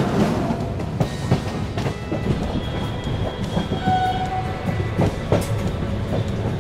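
A moving passenger train heard from its open door: the wheels rumble and clack irregularly over rail joints and points. A faint short horn sounds about four seconds in.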